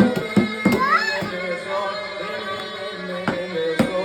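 Davul and zurna folk music: regular davul drum strokes under a sustained zurna melody, with a short rising slide in the melody about a second in.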